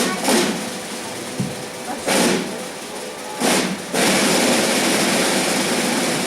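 A percussion ensemble imitating a steam train: three short chuff-like bursts spaced a second or two apart, then a steady hiss that starts about four seconds in.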